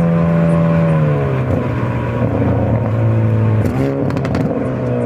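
Hyundai Avante N's turbocharged four-cylinder engine and exhaust running under way. The engine note drops in pitch about a second in and then holds steady. Near the end it dips briefly and comes back up.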